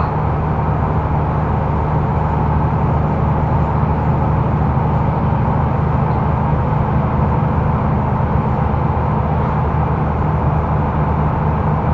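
Mercedes-Benz O530 Citaro facelift intercity bus heard from inside the passenger cabin, driving at a steady speed: a constant low engine drone mixed with road and rolling noise, with no gear changes or revving.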